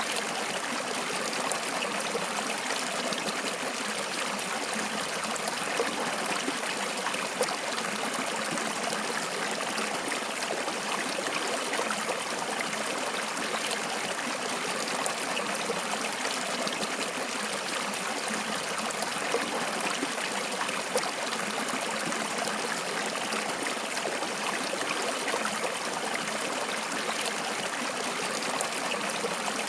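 Water flowing steadily in a stream, a continuous rushing and trickling with no pauses.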